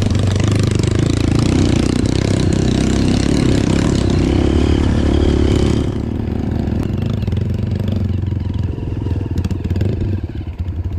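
Trail motorcycle engine running while riding, under a loud rushing noise. The rushing noise cuts off about six seconds in, leaving the engine's steady running.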